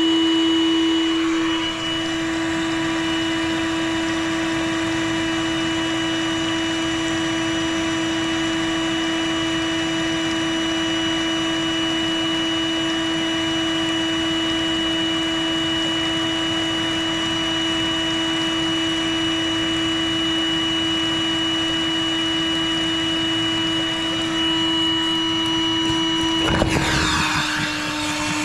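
Wet/dry shop vacuum running steadily with a high motor whine, drawing on a clogged air-conditioner condensate drain line to clear it. Near the end there is a brief rushing surge, and the motor's pitch drops slightly.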